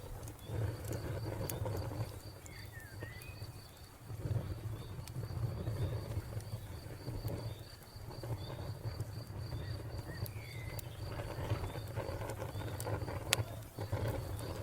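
Wood fire crackling, with a low rumble and a few sharp pops. Behind it a cricket chirps in a steady, even pulse, and a bird gives a couple of short calls.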